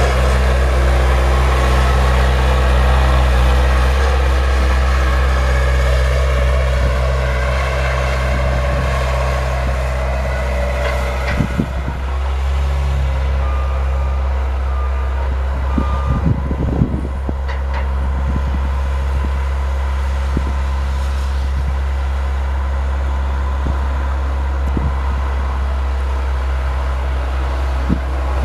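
Engine of a snow-plowing vehicle running steadily under load, with a few short knocks and clatters about twelve and seventeen seconds in.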